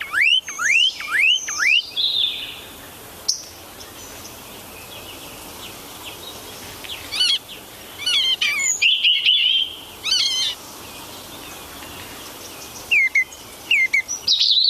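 Bird chirping: a quick run of about five rising chirps at the start, then scattered clusters of chirps with quieter gaps between.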